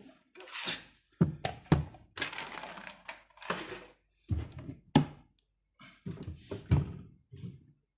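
Irregular handling noise: sharp knocks and clicks mixed with short rustling and scraping, as parts, wires and tools are moved about.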